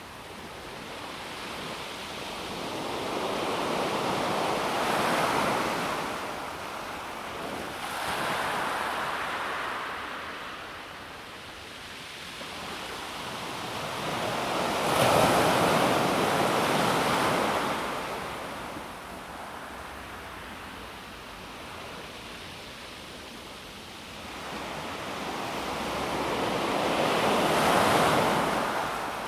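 Calm sea waves washing onto a pebble beach, each surge swelling and falling away in slow succession. Four waves come in, and the strongest arrive about halfway through and near the end.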